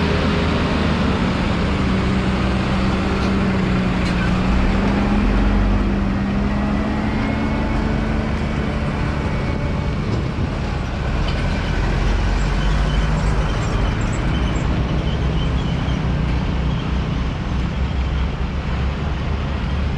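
A motor vehicle engine running steadily under a continuous wash of road noise, its low hum slowly drifting in pitch.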